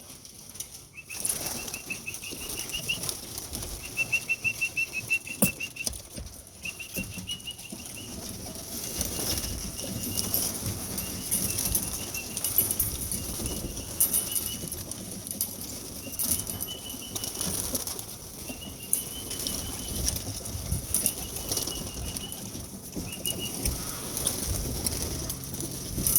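Pigeons' wings flapping and clattering as they come down and land at the loft, with a warbling whistle repeated every second or two to call them in.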